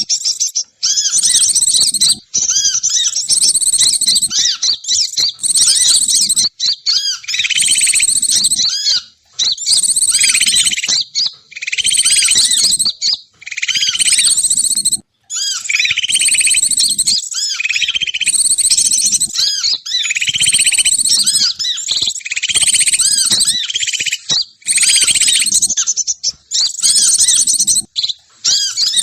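Recorded bird-lure (pikat) calls played as a trapping lure: rapid, high chirps and twitters from small birds in dense bursts of a second or two, broken by short gaps.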